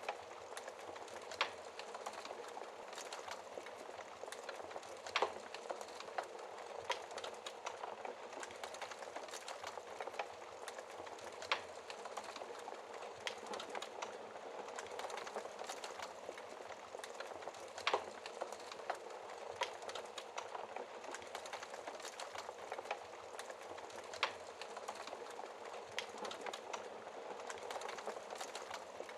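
Wood fire crackling in a fireplace: a steady hiss of flames with dense small crackles and a sharper pop every few seconds.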